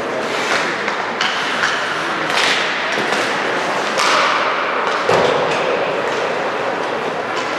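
Basketball game in a gym: a ball bouncing on the floor and other thuds at irregular intervals, over a steady background of court and crowd noise.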